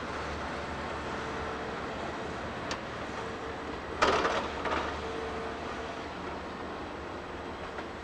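Electric train pulling away from the platform: a steady running noise with a faint held whine, a sharp knock about four seconds in, and a smaller one just after.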